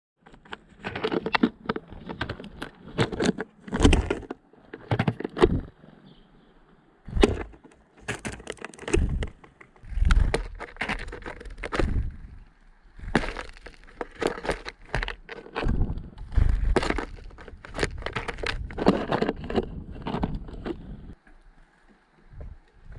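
Tits landing on a bird feeder right by the camera and pecking and hammering at sunflower seeds: irregular bursts of sharp taps and knocks that die away near the end.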